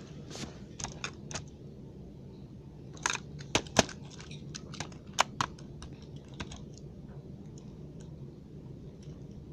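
Scattered light clicks and taps of a hard plastic toy truck being handled, at an uneven pace, a few sharper ones near the middle, over a faint steady background hum.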